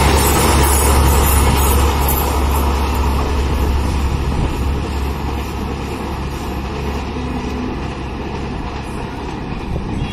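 Wheels of a passenger train's rear coach rumbling over the rails as the tail of the train passes, then the train receding. The low rumble and hiss fade gradually as it moves away.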